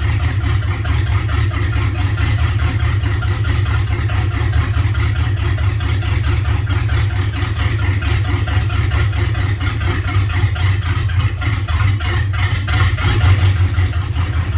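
GM LQ4 6.0-litre V8 idling with a rapid, continuous pulse; the idle is rough.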